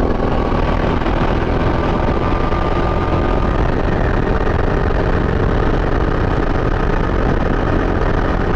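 CRG Centurion rental kart's single-cylinder four-stroke Honda GX270 engine running hard on track, heard onboard, loud and steady throughout.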